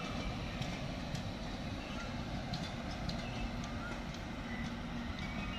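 Passenger train of LHB coaches rolling slowly past as it runs into a station: a steady rumble of wheels on the rails, with scattered light clicks from the running gear.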